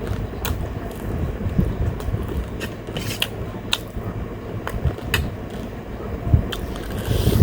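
Electric fan running steadily, with scattered sharp clicks of eating: chewing and mouth sounds close to the microphone.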